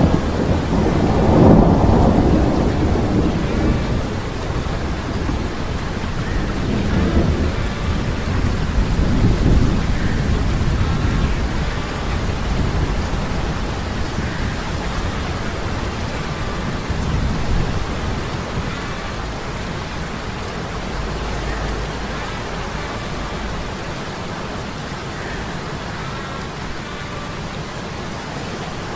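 Thunderstorm sound effect: a roll of thunder, loudest about two seconds in, with smaller rumbles following, over steady heavy rain that keeps on as the thunder fades.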